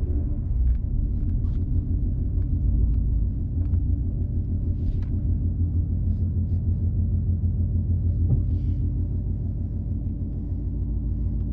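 Ford Mustang GT's 5.0 V8 with a full aftermarket exhaust idling with a steady low rumble, heard from inside the car.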